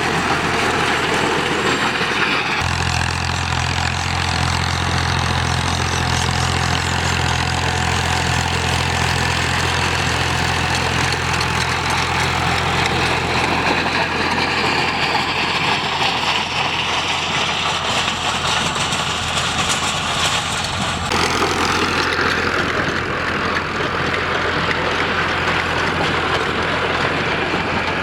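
Al Ghazi tractor's diesel engine running steadily, a low hum with a noisy clatter above it. The sound shifts abruptly twice, a few seconds in and again about three-quarters of the way through.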